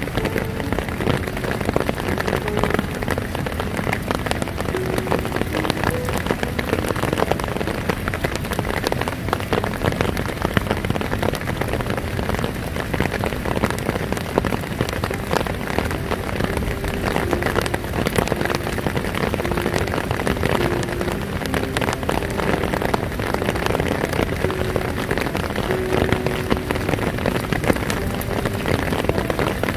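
Heavy rain pouring steadily, a dense patter of countless drops striking a surface.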